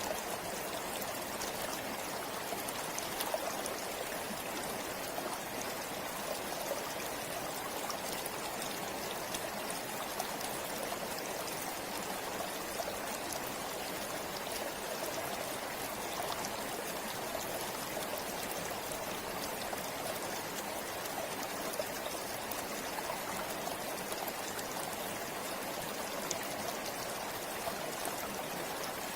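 Shallow river flowing steadily over stones, a continuous rushing with fine trickling and splashing.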